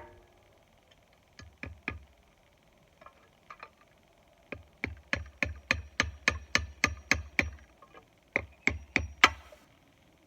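Hammer driving a nail: a few scattered blows, then a fast run of about a dozen strikes at roughly four a second, and four last blows near the end.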